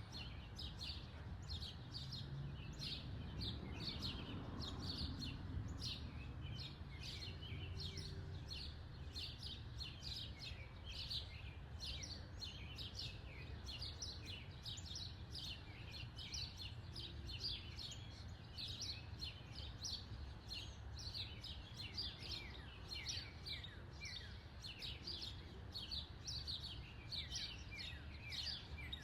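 Small birds chirping continuously: a string of short, falling chirps, a couple each second, over a steady low rumble.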